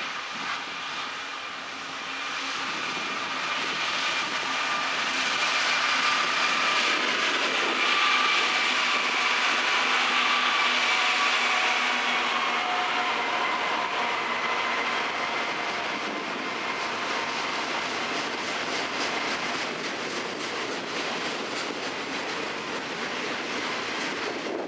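Florida East Coast Railway diesel freight locomotives passing at speed, growing louder to a peak about eight to twelve seconds in, with a faint whine. A long string of autorack freight cars then rolls by, their wheels clicking steadily over the rail joints.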